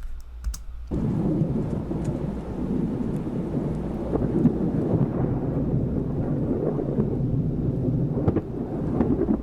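Thunder and rain from a storm, starting abruptly about a second in as a dense, steady low rumble, with a few sharp clicks.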